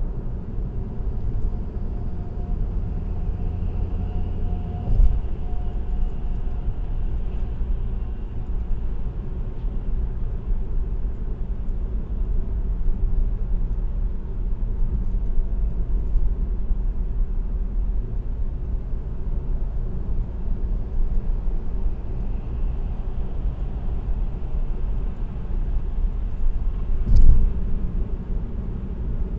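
Car tyre and road noise on an expressway, heard from inside the car: a steady low rumble, with a thump about five seconds in and a louder one near the end.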